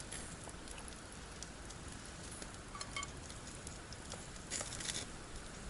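Wood campfire crackling: scattered small pops and snaps over a soft steady hiss, with a quick run of snaps near the end.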